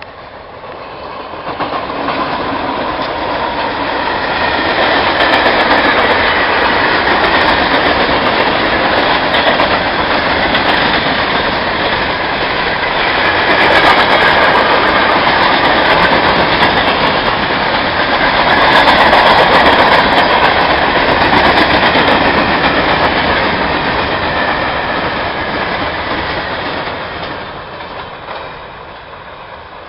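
Freight train cars rolling past, their wheels clattering over the rails. The sound is loud, swelling up over the first two seconds and fading away near the end.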